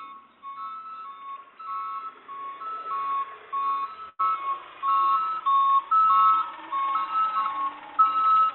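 A simple electronic tune of short beeping notes, two pitches alternating in a repeating pattern. It breaks off for an instant about halfway through and is louder after that.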